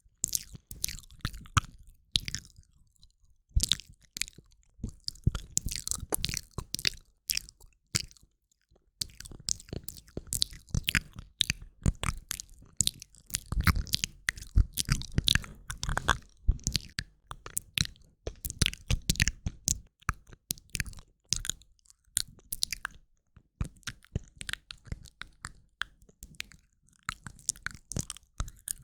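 Close-miked ASMR mouth sounds: rapid runs of mouth clicks and smacks, with short pauses between runs.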